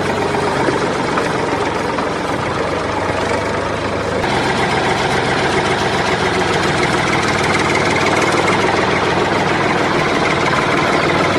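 An engine running steadily with a low, even hum. About four seconds in it grows slightly louder and brighter.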